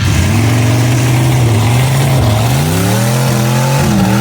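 An off-road vehicle's engine running steadily under load, then revving up about two and a half seconds in and easing back down near the end.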